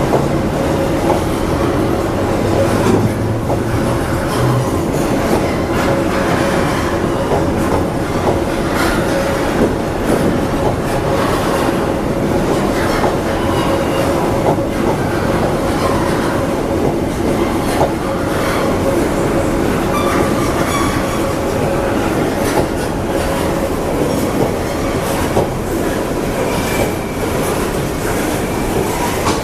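Freight train cars rolling past, wheels clacking over the rails, with a steady wheel squeal and brief higher squeals coming and going.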